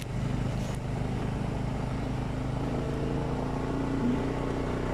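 A motor vehicle engine runs steadily, with its tone climbing a little about three seconds in.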